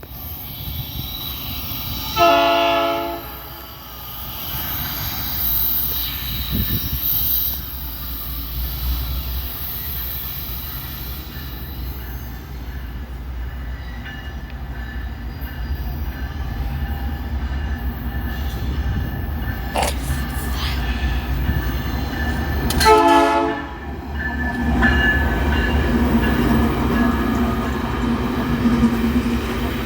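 Wabtec AC44i diesel-electric locomotive hauling a coal train: a steady low rumble of the locomotive and rolling cars, with two short horn blasts, one about two seconds in and another about twenty-three seconds in.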